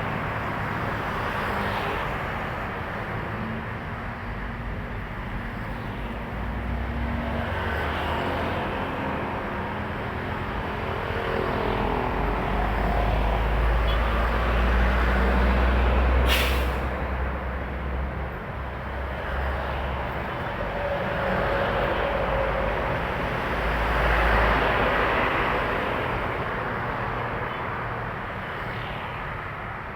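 Heavy diesel trucks passing on a highway, engine rumble and tyre noise swelling and fading as they go by, loudest about midway and again later. A short, sharp air-brake hiss comes a little past the middle.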